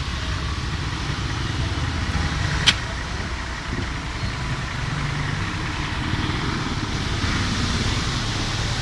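Vehicle engine running steadily with a low rumble, and one sharp click about three seconds in.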